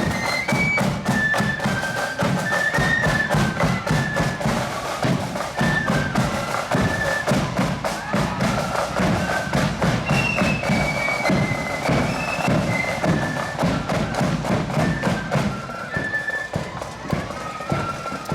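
Marching band playing: a high, stepwise melody over steady snare and bass drumming, growing quieter over the last few seconds as it moves away.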